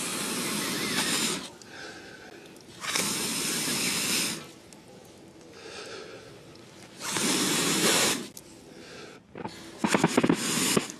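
Four loud, breath-like blowing blasts, each lasting about a second and a half, a few seconds apart. The last one is broken up by a few sharp clicks.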